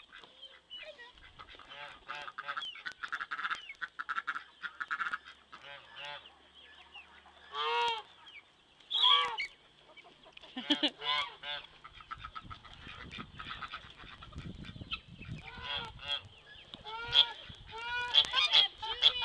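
Domestic geese honking over and over, with several birds calling. The loudest honks come about eight and nine seconds in and in a rapid flurry near the end.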